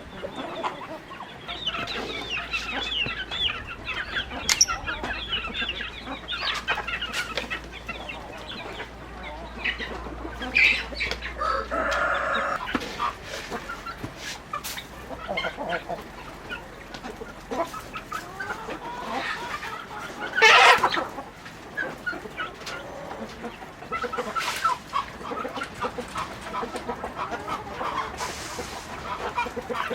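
A flock of free-range chickens clucking and calling over one another throughout, with one louder, sharper call about two-thirds of the way through.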